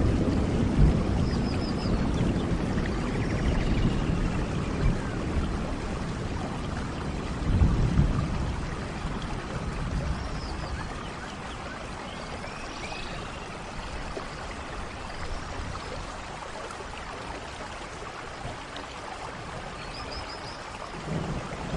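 Steady rain hissing, with a low rumble of thunder that swells again about eight seconds in and then dies away. Faint high chirps come through now and then.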